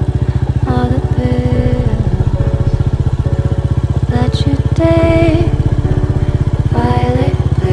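Royal Enfield Goan Classic 350's single-cylinder engine running with a steady, even beat, under a pop song with a woman singing.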